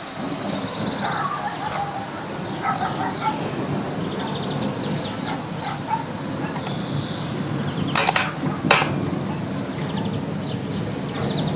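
Small birds chirping and calling over a steady rushing background noise, with two sharp clicks about eight seconds in.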